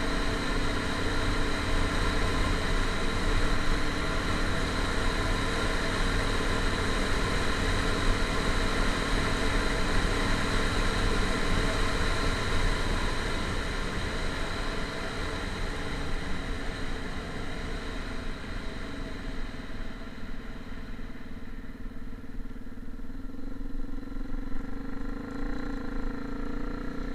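A motor vehicle's engine running steadily, growing quieter and duller over the second half.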